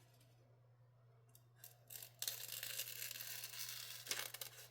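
A 14C28N steel knife edge slicing through paper, a continuous scratchy cut lasting about two and a half seconds and starting about two seconds in, after a few light ticks. The edge is sharp but a little toothy.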